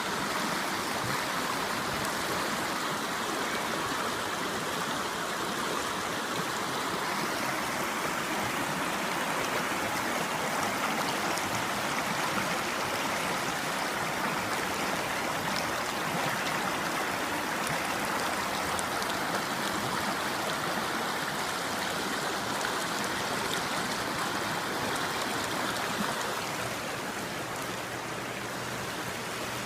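River water flowing in a steady rush, a little softer near the end.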